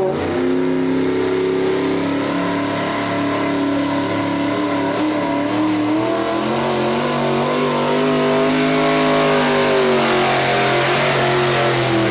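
Pro-street pulling truck's engine running hard at high revs as it drags the weight sled down the track. The pitch holds, shifts about halfway through, then sags slowly near the end as the load builds.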